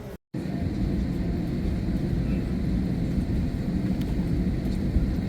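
Steady low rumble of jet aircraft noise, starting right after a brief cut to silence.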